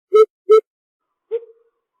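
Lesser coucal giving a series of deep, evenly spaced hoots, about three a second. The series breaks off about half a second in, and one more hoot follows about a second later.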